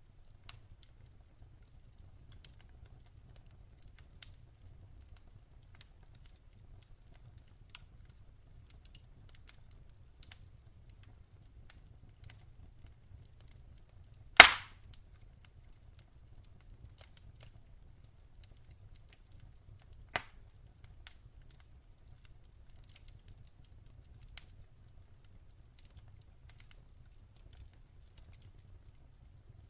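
Campfire crackling: scattered small crackles over a low steady rumble, with one loud pop about halfway through and a smaller pop a few seconds later.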